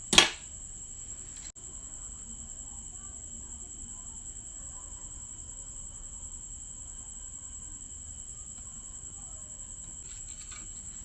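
A steady, high-pitched insect trill in the background, with one sharp knock just at the start.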